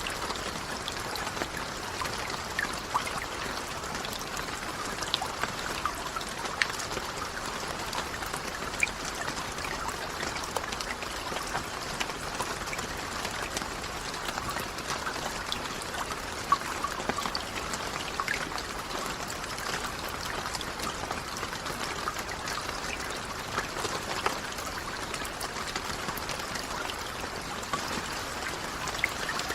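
Steady rain falling, an even hiss with many individual drops ticking and splashing and a trickling, running-water quality underneath.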